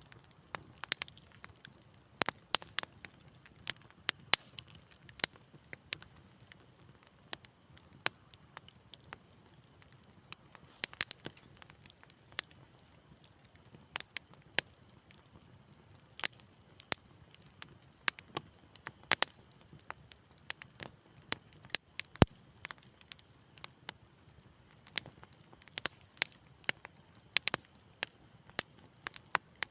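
Wood fire crackling: irregular sharp pops and snaps, several a second at times, over a soft low hiss.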